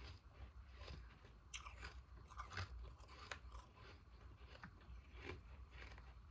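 Ice being bitten and chewed close to the microphone: an irregular run of about ten crisp crunches. The ice is pieces frozen in a humidifier's top.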